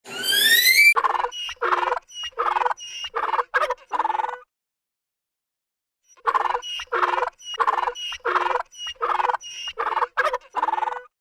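A rising whistle in the first second, then a bird giving short repeated calls, about two a second, in two runs separated by a pause of about two seconds.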